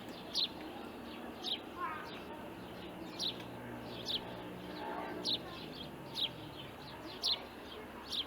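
A small bird chirping repeatedly: short, high chirps that drop in pitch, about one a second.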